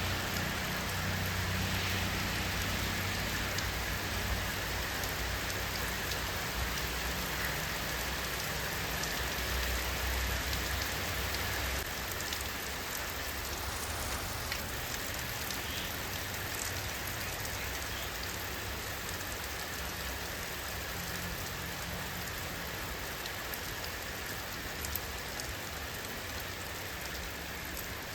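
Steady rainfall, a dense even hiss with scattered drop ticks. A low rumble sits underneath in the first half and fades out about twelve seconds in.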